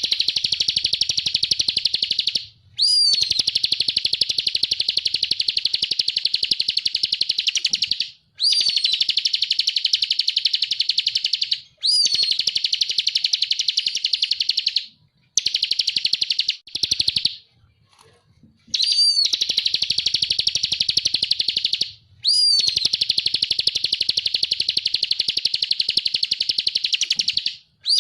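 Ciblek kristal, a prinia, singing long, rapid, high-pitched trills, each phrase opening with a sharp falling note. The phrases last two to five seconds, with short pauses between.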